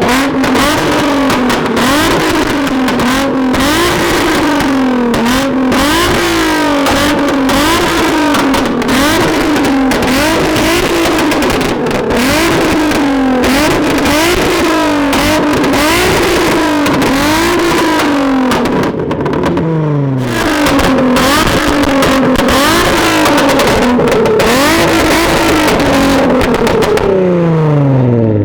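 Tuned sports car engine revved hard again and again, about once a second, with popping and crackling from the exhaust between revs. Twice the revs fall away, the second time near the end.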